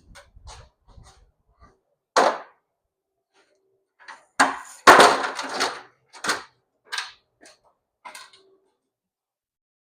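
Hammer blows on the metal shell of a catalytic converter, beating out its ceramic core: about seven irregular clanging strikes, the loudest about five seconds in, followed by about a second of clatter.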